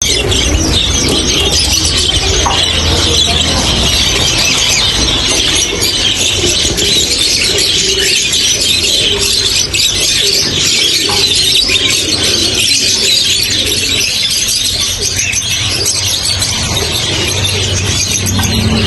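Many parrots chattering and screeching at once: a dense, continuous din of overlapping high-pitched squeals and chirps.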